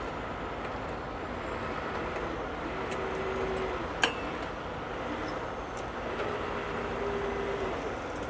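Steady motor-vehicle and road noise, with a faint tone that comes and goes. A single sharp click or knock about halfway through.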